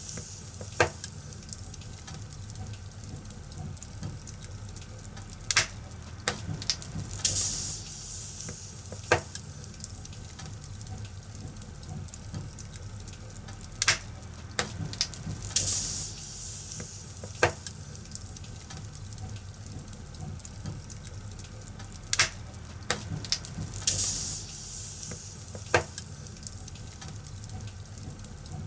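Wood fire crackling: a steady low hiss broken by sharp pops every second or two, with a soft high hiss swelling up about every eight seconds.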